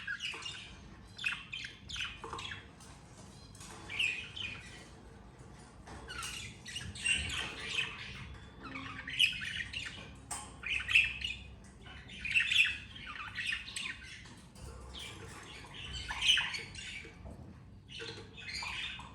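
Budgerigars chirping and squawking in quick, scratchy bursts of short calls with brief pauses between them.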